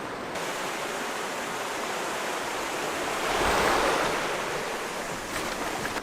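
Steady outdoor rushing noise that swells a little past the middle, with a low rumble at its peak like wind buffeting the microphone.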